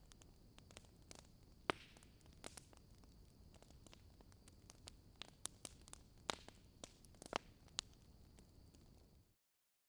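Faint campfire crackling: sparse, irregular sharp pops over a soft hiss, cutting off to dead silence near the end.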